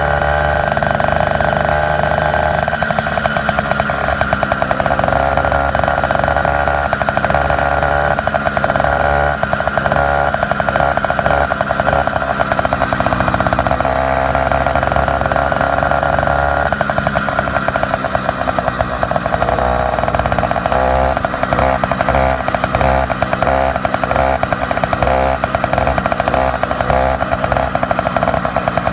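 A motorized bicycle's small engine running through its upgraded exhaust, a steady buzzing note. About halfway through it turns choppier, with a rapid pulsing.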